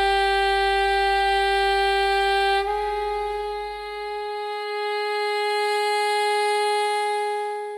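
A sustained, perfectly steady musical tone with many overtones. About two and a half seconds in it steps up slightly in pitch and thins to a purer tone, then fades out near the end.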